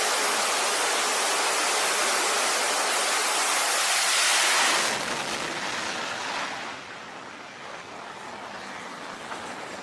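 Jet engine roar, an even rushing noise across all pitches that swells about four seconds in, drops sharply a second later and then fades as its high end thins out.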